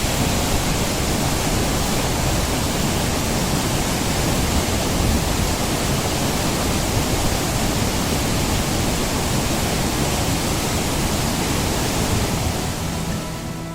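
Waterfall pouring heavily, its flow swollen after rain: a steady, loud rush of water. It fades near the end as guitar music comes in.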